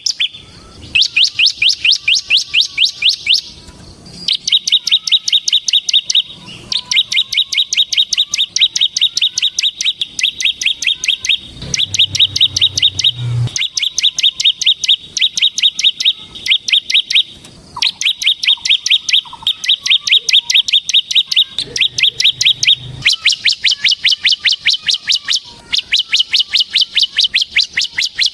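Bar-winged prinia (ciblek) singing its rapid 'ngebren' trill: long runs of fast, sharp repeated notes, about ten a second, broken by brief pauses.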